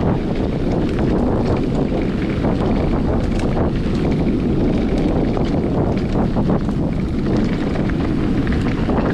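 Wind buffeting an action camera's microphone while moving along a trail, a loud steady rumble with scattered small clicks and rattles throughout.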